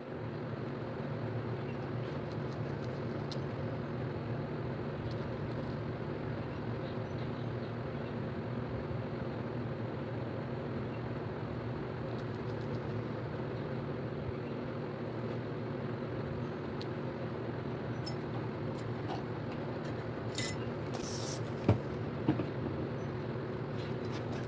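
Steady low mechanical hum, with two short spray-paint can hisses about twenty seconds in and a few sharp clicks just after.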